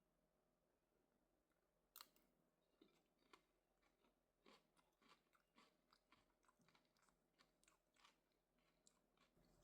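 Near silence with faint, scattered short clicks and crunches, the sharpest about two seconds in and a run of smaller ones in the second half.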